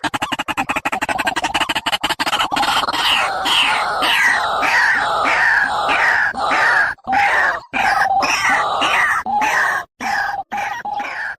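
Bird calls played back for luring: a fast rattling trill, then a long series of repeated downslurred calls, a few each second, broken by brief pauses near the end.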